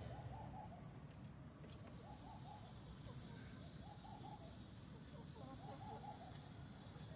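Faint bird calls: four short groups of low, repeated notes about two seconds apart, over a quiet low background hum.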